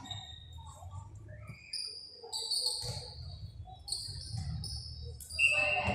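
A run of short, high-pitched squeaks of sneaker soles on an indoor court floor during play, over a low rumble of the hall. A louder squeak comes near the end.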